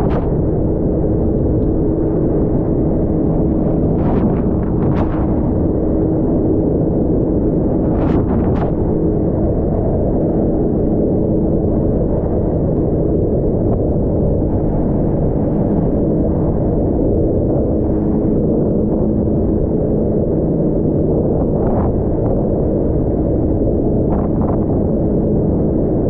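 Jet ski engine running steadily under way, a loud rumble with a constant hum, mixed with wind and water noise on the microphone and a few brief sharp slaps.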